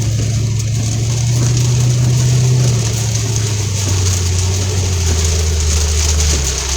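A car's engine and road noise heard from inside the cabin while driving, a low steady hum that rises slightly and then drops in pitch about three seconds in and again near the end, over a steady hiss.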